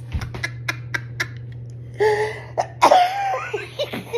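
A woman laughing helplessly: short sharp breaths and catches at first, then from about two seconds in, loud high-pitched squealing laughs that slide down in pitch, with coughing in the laughter.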